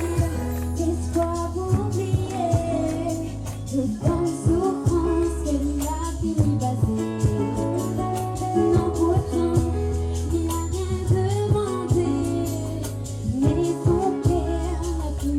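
Live band music: a steady bass line and drum beat under a wavering melody line.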